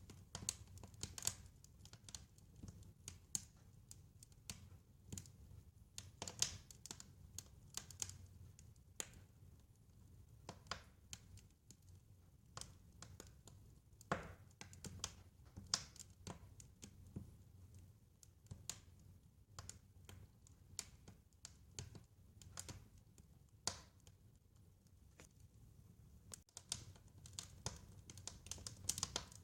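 Wood fire crackling: irregular sharp pops and snaps, several a second, over a faint low rumble.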